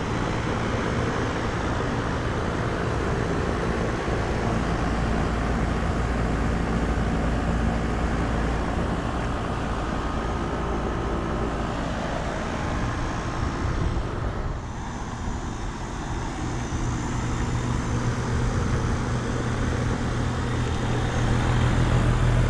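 Lennox Merit series heat pump outdoor units running in cooling mode: a steady compressor hum under the whoosh of the condenser fans, dipping slightly for a moment about two-thirds of the way in.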